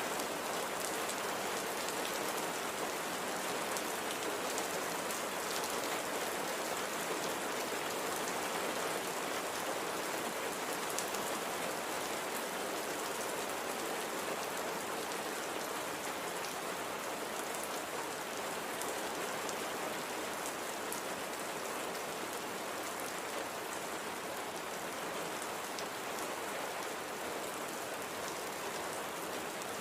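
Steady light rain falling, an even hiss with fine scattered drop ticks on a surface.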